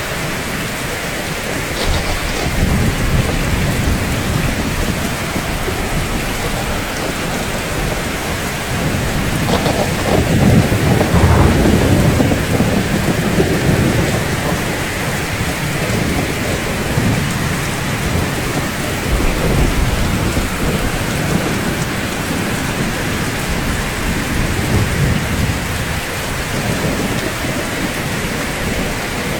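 Steady rain falling on rooftops, an even hiss, with low rolling thunder rumbling underneath that swells a few times, loudest about ten to thirteen seconds in.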